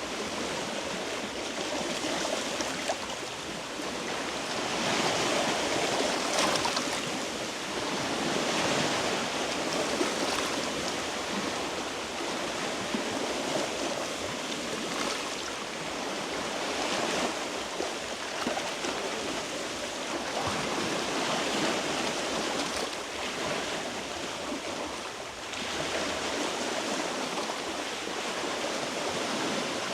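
Sea waves washing against a rocky shore: a steady rush of surf that swells and eases every few seconds.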